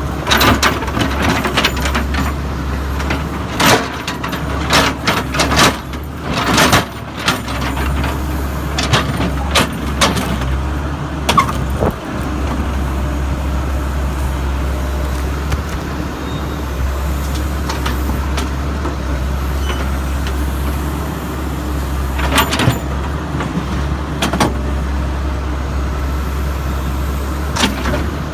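Backhoe's diesel engine running steadily under load, with bangs and clatter of broken concrete chunks striking steel, many in the first ten seconds or so and a few more near the end.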